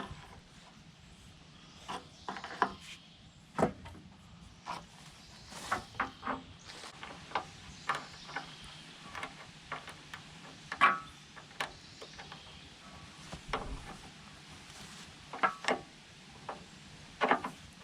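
Irregular clicks and knocks from pipe fittings being handled, some single, some in quick pairs, the loudest about eleven seconds in.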